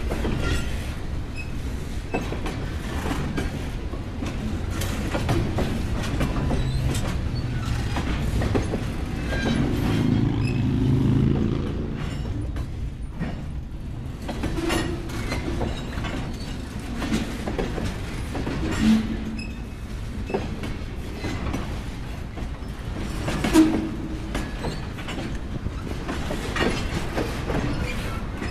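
Freight train boxcars rolling past: a steady low rumble with clickety-clack from the wheels crossing rail joints, and a couple of brief louder knocks in the second half.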